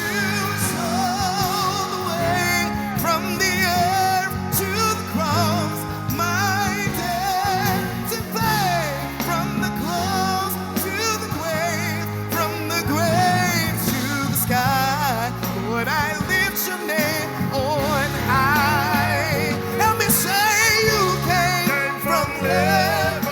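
Gospel worship music from a live band: a singer's voice wavers and glides through long runs over sustained bass notes, with drums and cymbals.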